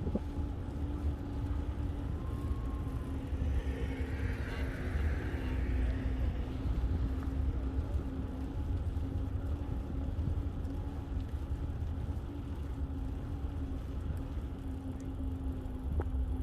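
Steady low rumble with a constant low motor hum, and a hiss that swells and fades about four seconds in.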